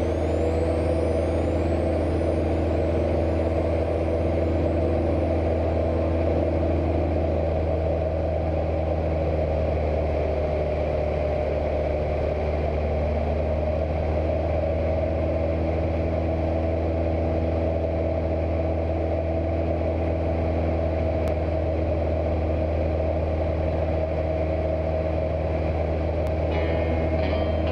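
Cessna 172's piston engine and propeller droning steadily in flight, a constant deep hum without change in pitch.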